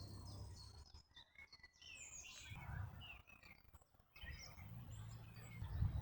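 Birds chirping and singing over a low background rumble, which grows louder near the end.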